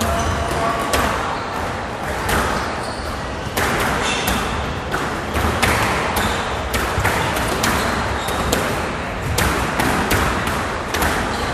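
Squash ball struck by rackets and rebounding off the court walls during a rally: sharp hits at an uneven pace, a little under two a second, with short high squeaks of shoes on the court floor between them.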